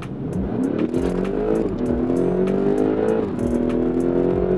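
BMW X5M's twin-turbo V8 under full-throttle acceleration, tuned to about 702 hp. The engine note rises steadily through the revs, drops sharply with an upshift about a second and a half in and again about three seconds in, then climbs again.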